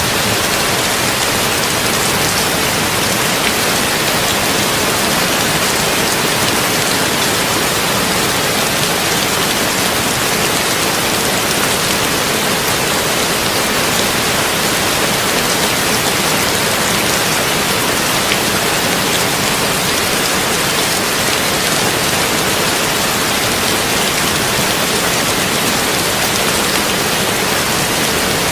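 Heavy rain falling steadily on a tin roof: a dense, even hiss of drops that does not swell or break.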